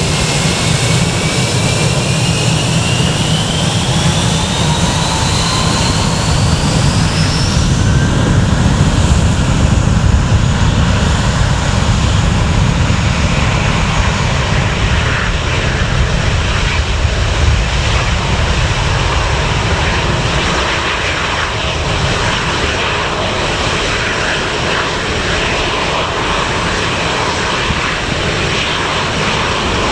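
A departing airliner's engines spooling up to takeoff power: the whine rises in pitch over the first several seconds under a heavy rumble, peaks about a third of the way in, then settles into a steady roar as the plane rolls away.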